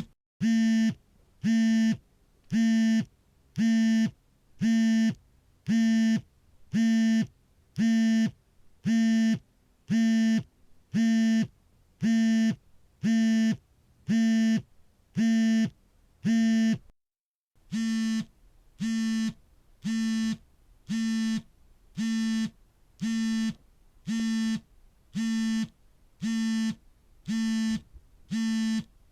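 Smartphone vibrating for an incoming call: a steady-pitched buzz pulsing about once a second, each buzz a little over half a second long. About halfway through the sound cuts out for half a second, then the buzzing goes on slightly quieter.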